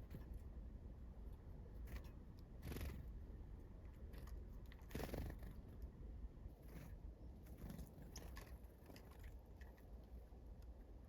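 Small wild birds feeding: faint tapping and cracking clicks, a few brief rustles, and a couple of short high call notes in the second half.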